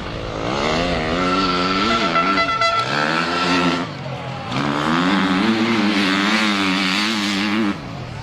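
Dirt bike engine revving hard in two long pulls with a wavering pitch, dropping off briefly about four seconds in.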